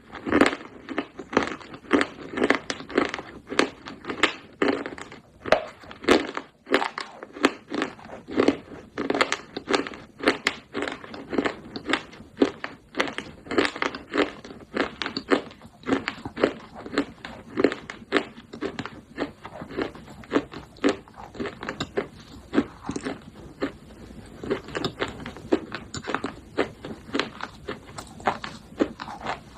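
Pieces of baked clay pot being bitten and chewed, a steady run of sharp crunches about one or two a second.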